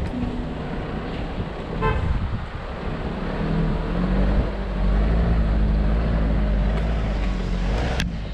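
A four-wheel drive's engine working under load as the vehicle crawls over rough ground, louder and steadier from about halfway. A sharp knock comes near the end.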